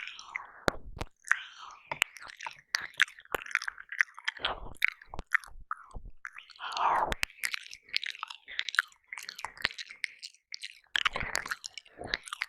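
Close-miked wet mouth sounds of ASMR ear licking and ear eating on a binaural dummy-ear microphone: rapid lip smacks, tongue clicks and slurps, with a couple of longer breathy sucking swells partway through.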